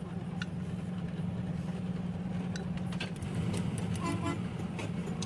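Engine running steadily with an even low drone and faint clicks over it; a brief higher tone sounds about four seconds in.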